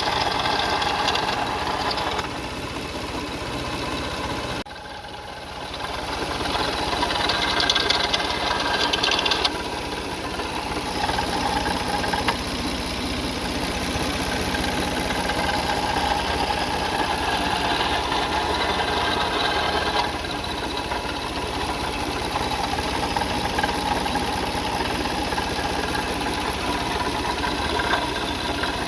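Toyota Sienna 3.3-litre V6 engine running with a rattle, which the owner suspects comes from one of the pulleys, the water pump or the timing belt. About four and a half seconds in, the sound dips sharply and then comes back.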